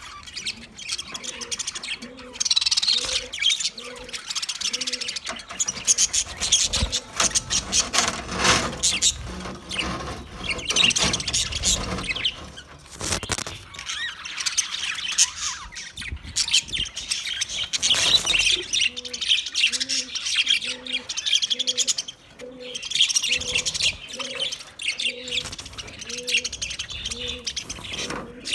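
A flock of budgerigars chattering and warbling with fast, overlapping chirps. Through part of it, a lower call repeats about twice a second, in two stretches: one near the start and one over the last third.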